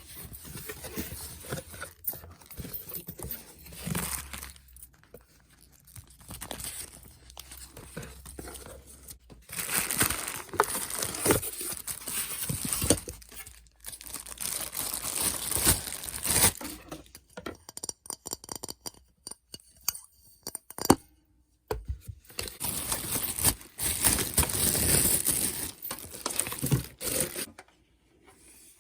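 Packaging of a boxed crock pot being torn and crinkled by hand as it is unpacked: repeated stretches of tearing and rustling with scattered clicks and handling knocks, and short pauses between.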